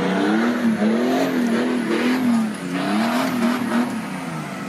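Off-road 4x4 engine revving, its pitch rising and falling several times as the driver works the throttle in mud.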